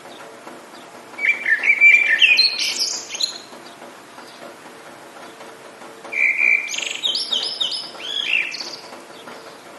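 A songbird singing two quick, varied phrases of high notes, one about a second in and another about six seconds in, over a steady hiss of rain.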